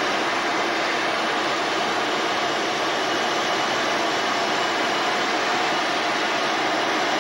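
Jet aircraft engines running, a steady even rushing noise that holds the same level throughout.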